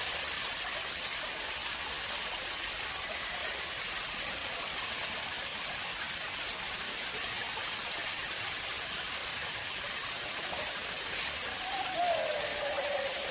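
Water flowing steadily into an artificial pond: an even rushing splash. A faint wavering tone joins it near the end.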